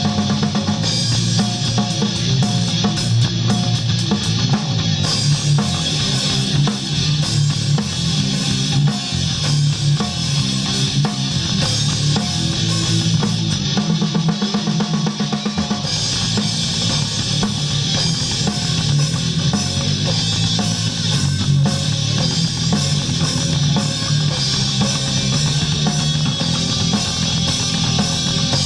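Live rock band playing: drum kit and electric guitars, with bass. The drums drop out of the low end briefly about halfway through.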